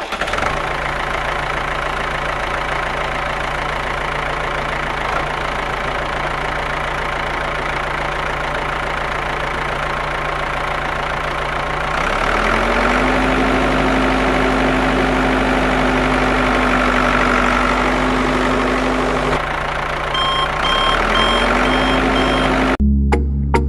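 Small DC motors of a homemade toy tractor and mini water pump running with a steady hum. About halfway in, a second, higher-pitched motor hum spins up and holds, cuts out briefly, then spins up again near the end, alongside a few short electronic beeps.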